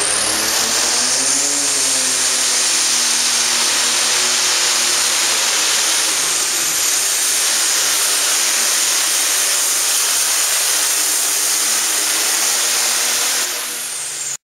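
Pro stock pulling tractor's turbocharged diesel engine running flat out during a pull, with a steady high whine over the engine noise and a rise in pitch about a second in. The sound eases slightly near the end, then cuts off suddenly.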